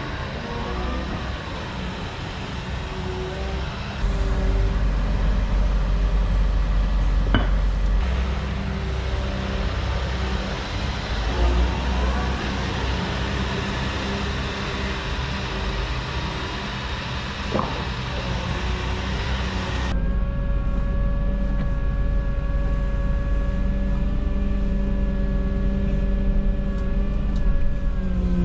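Volvo EW160E wheeled excavator running and working as it rips out kerbs and paving tiles: a continuous engine-and-hydraulics din with a couple of sharp knocks, then a steady, even engine drone in the last third.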